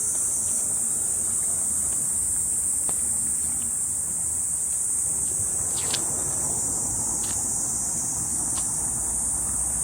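Chorus of cicadas buzzing in a steady, unbroken high-pitched drone, with a low rumble underneath and a few short clicks about six to nine seconds in.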